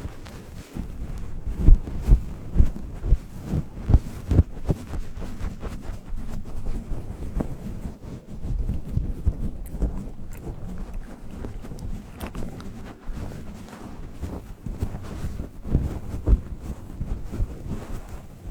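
Low rumbling wind noise buffeting the microphone, with many irregular dull thumps.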